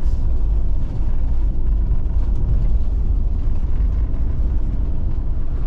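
Motorhome driving along a road, heard from inside the cab: a steady low rumble of engine and road noise.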